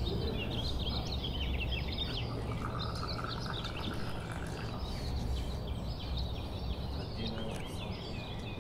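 Small birds chirping and twittering in quick, repeated calls over a low, steady background hum.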